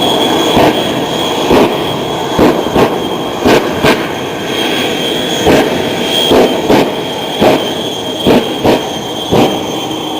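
Shockwave jet truck's jet engines running with a steady high whine, punctuated by about a dozen loud afterburner pops at uneven intervals.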